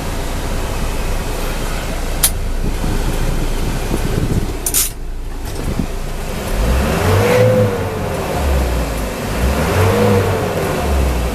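Truck engine running, revved up and back down twice in the second half, with two sharp clicks earlier on.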